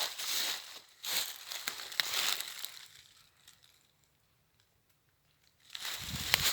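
Footsteps crunching and rustling through dry forest litter of leaves and twigs, irregular crunches that stop for about two seconds of near silence in the middle, then start again near the end.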